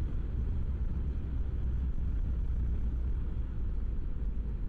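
BMW G650GS single-cylinder engine running while the bike is ridden along, heard from inside the rider's helmet as a steady low rumble.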